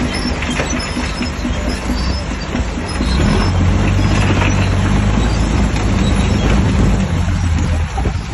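Heavy diesel engine of a Shantui DH17C3 crawler bulldozer working, with metallic rattling from its tracks. The engine gets louder about three seconds in as it takes on load, then eases off near the end.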